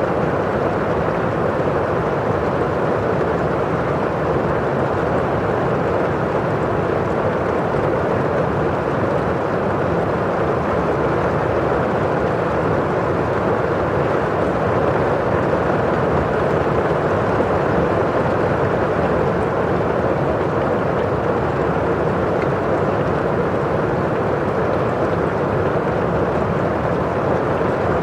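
Steady rain on a window and outside, heard as a dense, even rush without distinct separate drops.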